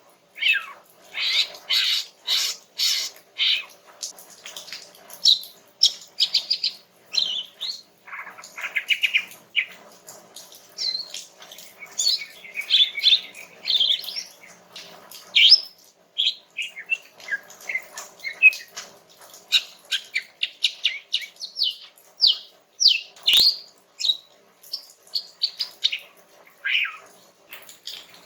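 Female green leafbird (cucak ijo) singing in a relaxed stream of rapid chirps, trills and short gliding whistled notes. This is the female's call used to draw males into answering. A single sharp click comes about 23 seconds in.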